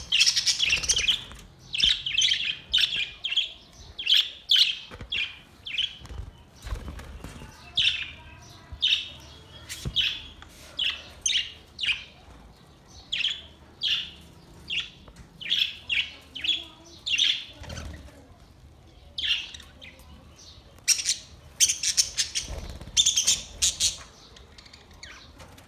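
Budgerigars chirping and chattering in quick, short, high calls, with a busier burst of calls near the end.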